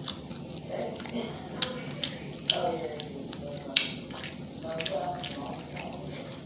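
Close-up mouth sounds of eating chicken wings: wet chewing and smacking with a few sharp clicks, and some short muffled vocal sounds between them.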